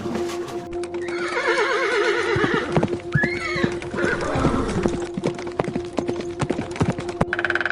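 Horse whinnying, a quavering neigh that falls in pitch, followed by a run of hooves clip-clopping on a hard surface. A steady background tone runs underneath.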